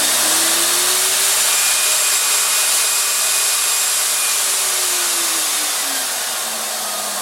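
Metro Air Force Commander variable-speed pet dryer blowing hard through its hose, a loud rush of air with a motor whine. The whine climbs in pitch at the start, holds, then falls over the last couple of seconds as the motor slows and the blowing gets a little quieter.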